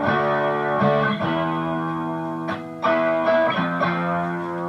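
Electric guitar through a Harley Benton American Sound amp-simulating distortion pedal with the drive at about three o'clock and the EQ flat: held, heavily distorted chords, a new chord struck about every second. The playing stops abruptly at the very end, and the sound is loud.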